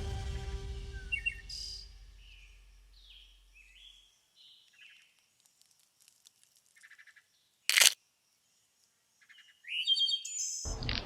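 Songbirds chirping: a run of short, high calls, some falling in pitch and some buzzy. A single sharp click comes about eight seconds in.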